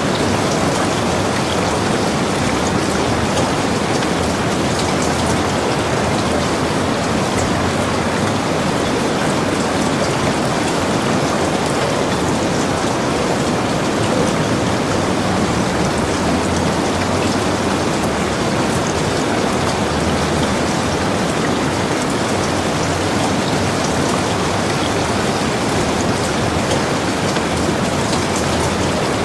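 Heavy rain falling steadily, a dense even hiss of rain with many small drop ticks on a roof and surroundings.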